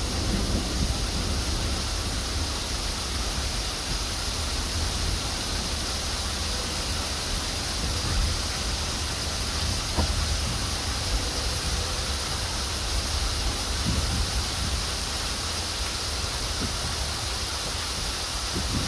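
Steady rain of a passing thunderstorm, an even hiss with a low rumble beneath it.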